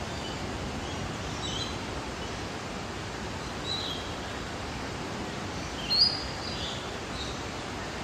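Birds giving several short, high chirps scattered through, the loudest about six seconds in, over a steady background hiss.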